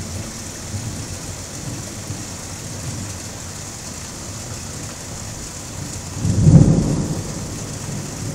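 Thunderstorm: steady rain hiss, with a loud low thunder rumble building about six seconds in and dying away.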